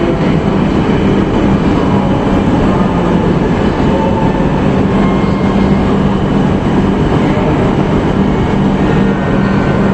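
E5 series Shinkansen standing at the platform, its onboard equipment giving off a steady hum with a constant low tone.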